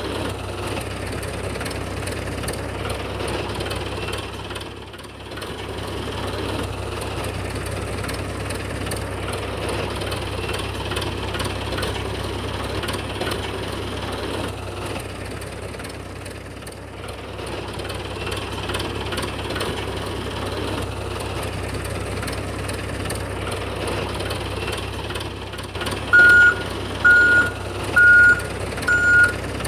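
A small motor runs steadily with a low hum. Near the end a loud electronic beep starts repeating about once a second, like a vehicle's reversing alarm.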